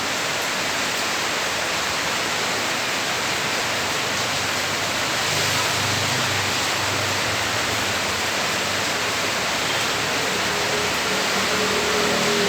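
Heavy rain pouring down in a steady downpour. A faint low rumble joins it from about halfway through.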